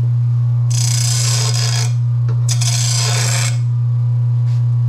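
RBG 712 mower blade sharpener's motor humming steadily while a mower blade is run across the grinder twice, two grinding scrapes about a second each, to take the burrs off the sharpened edge.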